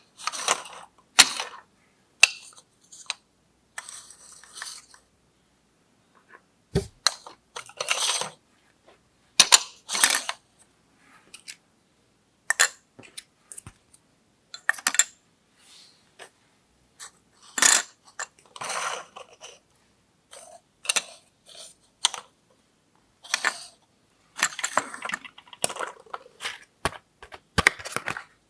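Small plastic toy tea-set pieces being handled: separate clicks and light clinks with short rustles, coming in irregular bursts with quiet gaps between.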